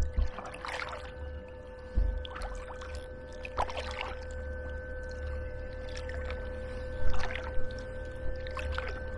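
Hiqmar EP18Li electric fin motor running with a steady whine, while water splashes against the kayak now and then, over a low rumble.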